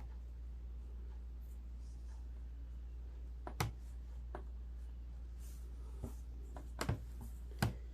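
Fabric being handled and pinned at a seam: a few light, irregular clicks and taps with soft rustling, over a steady low hum.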